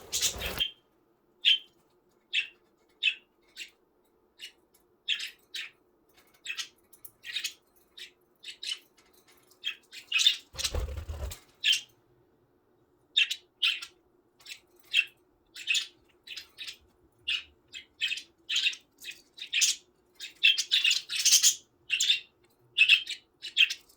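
Budgerigars chirping in many short, separate calls. A brief, louder noisy burst comes about eleven seconds in.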